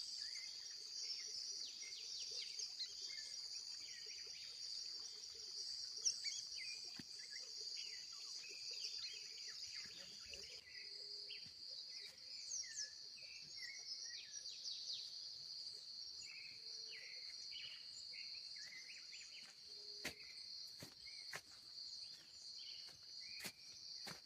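Dawn chorus: a steady high-pitched insect trill, like crickets, runs throughout while many birds give short chirps and calls over it, with a few sharp clicks near the end.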